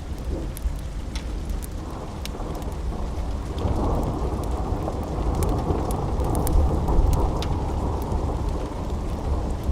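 Steady rain with a long roll of thunder that builds about two seconds in, grows stronger past the middle and then slowly fades. Scattered sharp pops and clicks sound over it.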